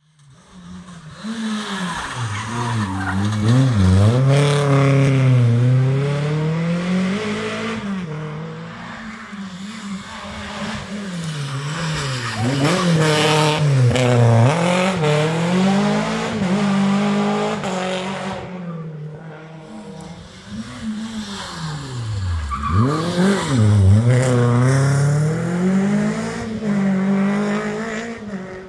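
Rally car engines revving hard and changing gear, the pitch climbing and dropping again and again with sharp dips under braking. The sound swells three times as cars pass close by.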